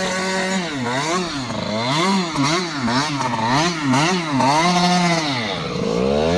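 KTM 85 SX's two-stroke single-cylinder engine revving up and down in quick repeated swells, about two a second. The revs are held high for a moment and drop near the end.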